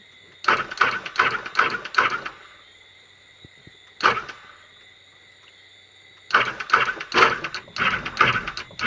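Sea-Doo electric starter motor whirring in short, irregular bursts as the start button is pressed repeatedly, with quiet gaps between. The engine does not catch.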